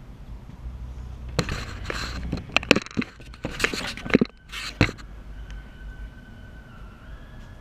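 Metal tools and engine parts clanking and scraping during an engine teardown: a few seconds of sharp knocks, clicks and scrapes, starting about a second and a half in and stopping about five seconds in.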